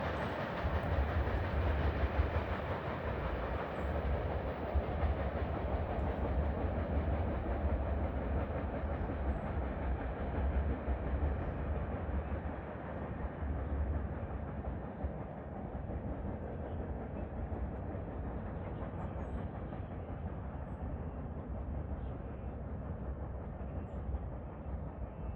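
A train passing and slowly dying away as it moves off: a steady rumble.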